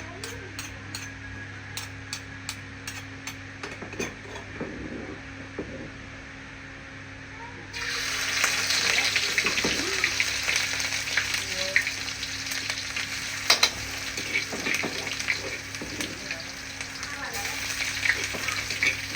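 Cooking oil frying in a pan, with light crackles at first. About eight seconds in it breaks into a loud, sudden sizzle as food goes into the hot oil, and goes on sizzling while it is stirred.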